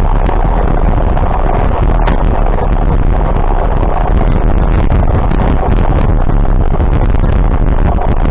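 Steady running of a vehicle, with engine, road and wind noise loud and unbroken.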